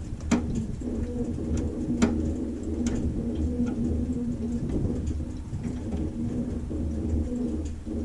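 Cessna 140A's small piston engine running at low power, a steady drone with an even low pulsing rumble, heard from a wing-mounted camera. Sharp clicks and rattles come every second or so, with a stronger one near the start and another about two seconds in.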